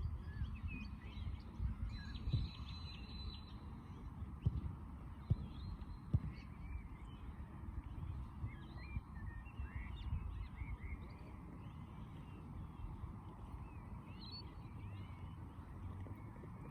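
Small birds chirping and twittering, with many short calls scattered throughout and a brief trill about two seconds in, over a steady low rumble. A few sharp knocks come around the middle.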